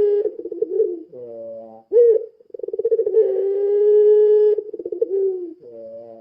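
Puter pelung dove, a long-calling variety of the domestic ringneck dove, cooing. Short notes come first, then a long drawn-out coo of nearly three seconds that starts with a quick flutter and falls away at its end, then a short lower note near the end.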